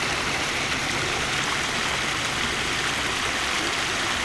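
Backyard koi pond waterfall splashing steadily into the pond, an even rushing of water.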